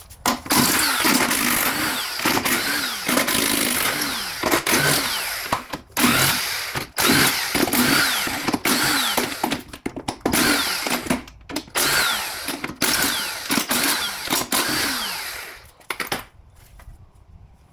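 Handheld power tool run in repeated short bursts, spinning out bolts on the back of an automatic transmission case. The pitch drops as each burst winds down, and it stops about sixteen seconds in.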